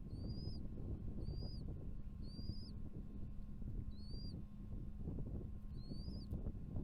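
Bald eagle chick giving a high, thin call about once a second, typical of begging for food. Each call is a short whistle that rises and then drops, with a gap near the end. A steady low rumble runs underneath.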